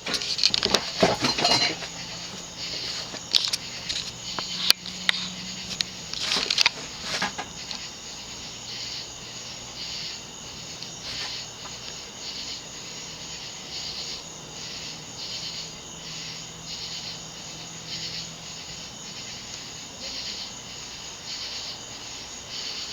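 A circa-1980 View Fan-built Codep 52-inch ceiling fan starting up on low speed. There is clicking and rattling in the first few seconds, then a faint steady motor hum with a high chirp repeating about one and a half times a second.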